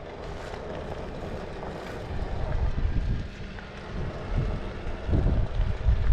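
Wind buffeting the microphone over the low rumble of a motorcycle being ridden, with gusts swelling and fading.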